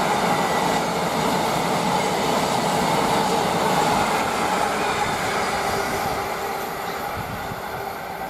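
Intermodal freight train hauled by a Class 66 diesel locomotive passing, its wagons rolling steadily over the rails with a faint wheel squeal, fading away over the last couple of seconds.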